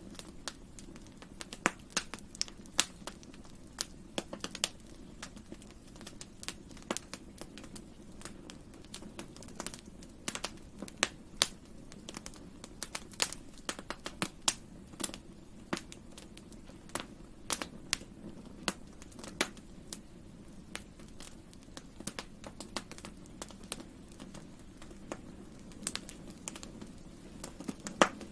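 Campfire burning: wood crackling and popping in many sharp, irregular snaps over a low steady rush of the flames.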